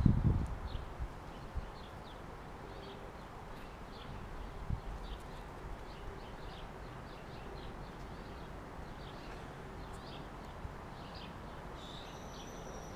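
Small birds chirping in short, scattered calls over a steady outdoor background noise, with a bump right at the start.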